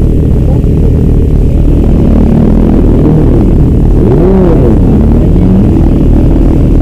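Loud, steady vehicle engine and road rumble while travelling, with an engine tone that rises and falls about four seconds in.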